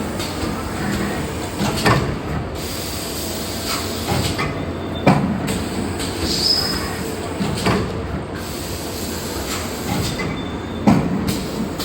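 30-ton hydraulic paper plate and tray forming press running, with a steady mechanical noise and a clunk about every three seconds as the press cycles. A brief high hiss comes about halfway through.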